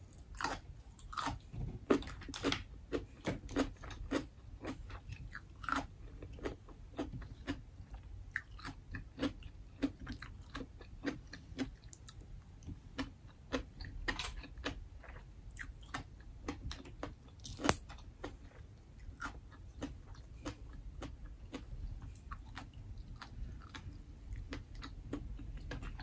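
Close-miked chewing of steamed mussels: wet mouth sounds with frequent sharp clicks over a low steady room hum.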